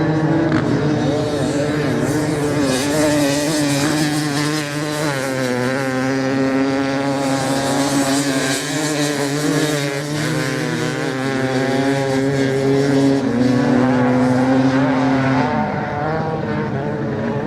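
Several motorcycle engines racing at once, running hard, their pitches rising and falling as throttle and gears change; one engine's note drops away near the end.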